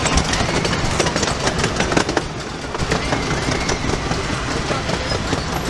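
Small amusement-park ride train rolling along its narrow-gauge track: a steady rumble from the open cars with irregular clicks of the wheels over the rail joints.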